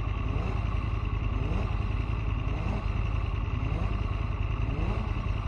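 Aprilia Tuono motorcycle engine running under a heavy low rumble, its pitch climbing again and again as it revs up, about once a second.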